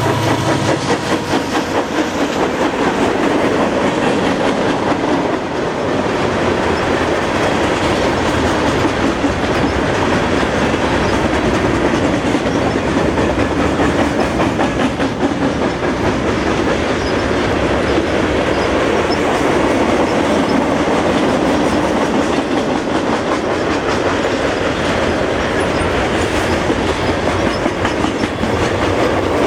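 CSX freight train cars rolling past close by, their steel wheels clattering steadily over the rail joints. A horn note fades out in the first second.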